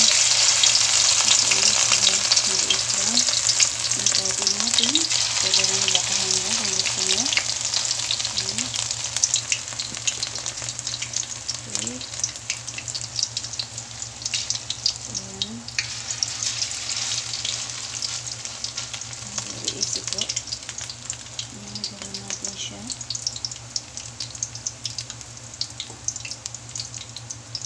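Shrimp-and-batter patties frying in hot oil in a wok: a dense crackling sizzle, loudest at the start as the batter goes into the oil and slowly dying down.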